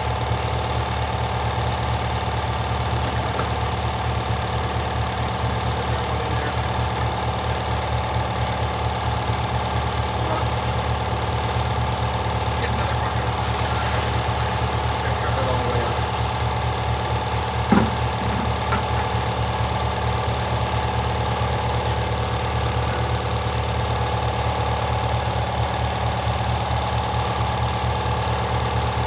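A machine running steadily with an even, unchanging hum, and one sharp knock a little past halfway.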